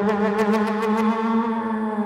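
A single low note held steadily with a slight waver, a hummed drone imitating a film-score sound, with a quick run of about six clicks during the first second.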